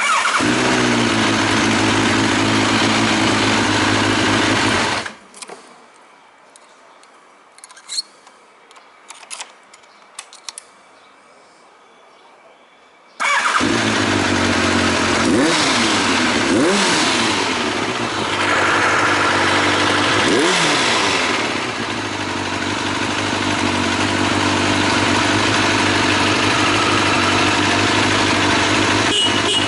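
Kawasaki ZRX1200R inline-four motorcycle engine starting and idling through an aftermarket Nojima full exhaust, then stopping after about five seconds. After several seconds of small clicks it is started again and runs on, with a few short blips of the throttle.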